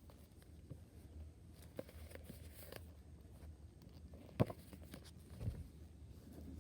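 Faint handling of packaging: scattered light clicks and rustles, with one sharp knock about four seconds in and a duller thud a second later.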